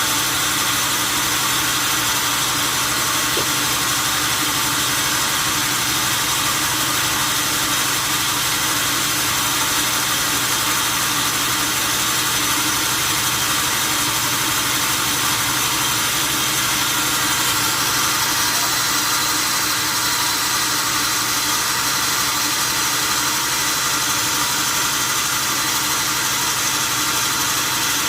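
A steady mechanical drone with a constant low hum, unchanging in level or pitch.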